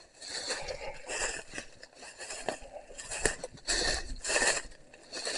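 Footsteps crunching and rustling through dry fallen leaves and twigs while walking downhill, an uneven step roughly every half second.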